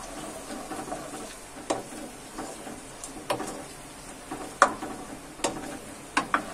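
Potato cubes frying in oil in a non-stick kadai, sizzling softly while a wooden spatula stirs them, with several sharp knocks of the spatula against the pan.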